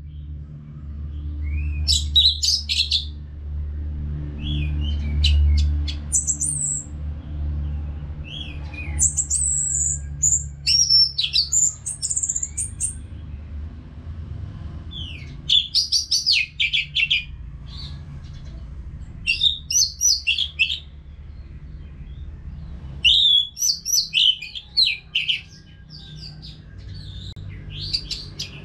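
Orange-headed thrush singing in bursts of quick, varied, high-pitched phrases with short pauses between them, over a low steady rumble.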